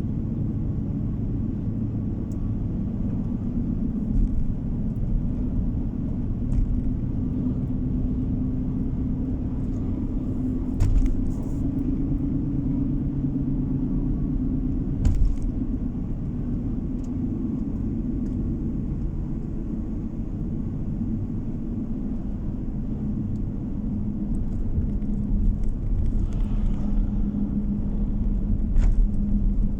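Steady low road rumble of a moving car heard inside the cabin: tyre and engine noise. A few sharp knocks cut through it, about a third of the way in, around the middle, and near the end.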